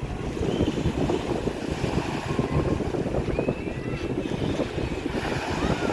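Ocean surf breaking and washing ashore, with wind buffeting the microphone.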